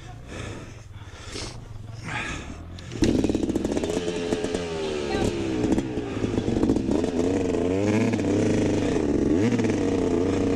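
Dirt bike engine close by, starting suddenly about three seconds in and revving up and down repeatedly.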